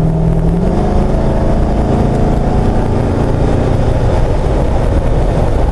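Chevy 5.3-litre LS V8 in a Jeep Wrangler JK, heard from inside the cabin, accelerating on cruise-control resume. Its note jumps up about a second in as the automatic transmission downshifts, then pulls steadily to regain cruising speed over loud road and wind noise.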